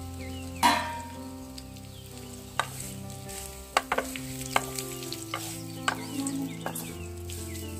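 Dhokla pieces sizzling in hot spiced oil (a tempering of mustard seeds, cumin, curry leaves, onion and chilli) in an aluminium kadai, stirred with a wooden spatula. The spatula knocks against the pan several times, loudest about a second in.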